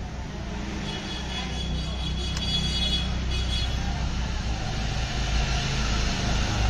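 A motor vehicle's engine running: a steady low rumble that slowly grows louder.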